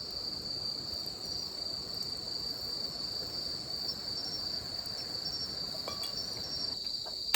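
Steady high-pitched insect chorus, one unbroken drone, over a low, even background noise.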